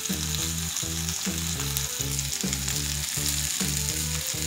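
Sliced salami and sausage sizzling on the hot ribbed plate of an electric contact grill, a steady frying hiss. Underneath runs background music with a steady beat.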